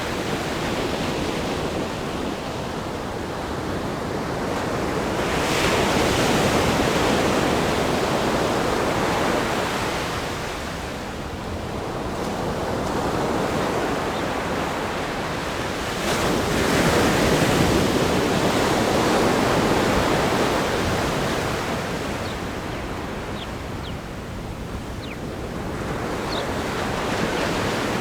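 Ocean surf breaking against a rock groin and washing up the sand. Each wave surges in every five to six seconds over a constant hiss of surf.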